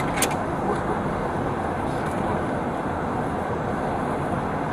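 Steady road traffic noise, with a short click about a quarter of a second in.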